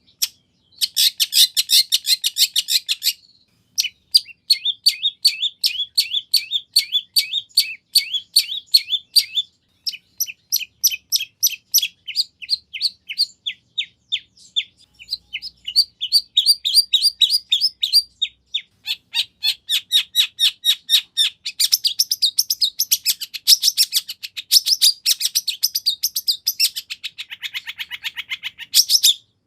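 Long-tailed shrike singing: long runs of rapid, sharp high notes, many each second, in bursts broken by brief pauses.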